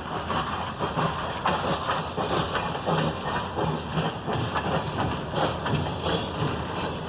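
Loaded salt freight train rolling past, its steel wheels clattering over the rails in a dense, irregular run of clicks and clacks.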